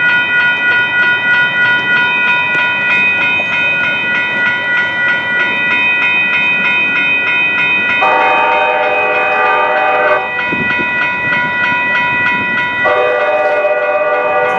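Grade crossing warning bells ringing steadily in fast repeated strokes, with a train horn sounding two blasts over them: one about two seconds long around eight seconds in, and a second starting near the end and still sounding.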